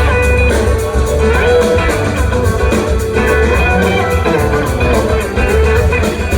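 Live band playing an instrumental passage without singing: electric guitar over bass and drum kit.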